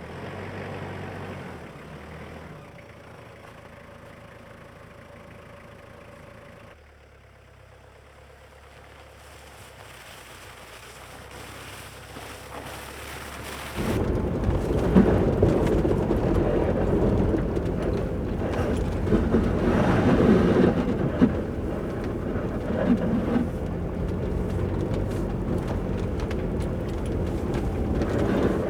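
Vehicle engine running, then driving over rough, snowy ground: a steady low rumble that gives way, after a couple of abrupt cuts, to louder rumbling road noise with scattered knocks and bumps.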